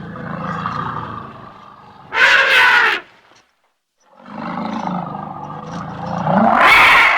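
Elephant calling twice: each call starts as a low rumbling growl and ends in a loud, shrill trumpet blast, with a short pause between the two calls.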